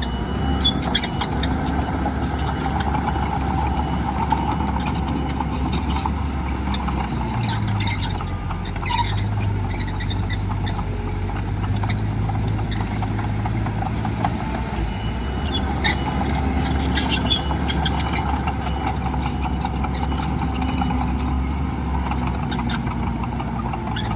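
Heavy diesel earthmoving machinery working: a steady engine drone whose pitch shifts a few times under changing load, with scattered metallic clanks and squeaks.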